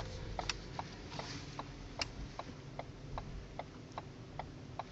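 2014 Ford Escape's turn-signal indicator ticking steadily inside the cabin, about two and a half clicks a second, over a low, steady engine hum.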